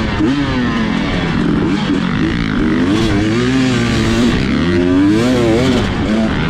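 Dirt bike engine on trail riding, its pitch rising and falling again and again as the throttle is blipped and rolled on and off through the turns.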